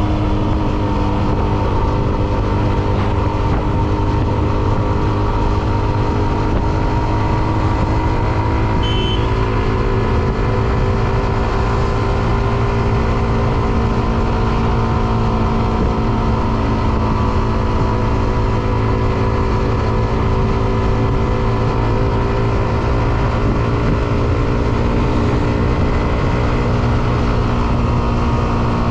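Hero Xtreme 125R's single-cylinder engine running steadily while riding, its pitch drifting slowly up and down with small throttle changes.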